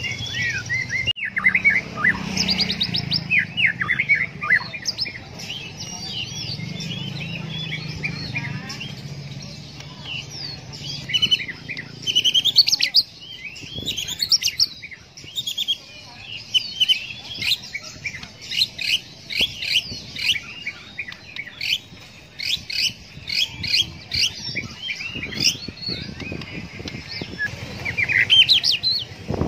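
White-rumped shama (murai batu) singing a fast, varied song of rich whistles, trills and chirps.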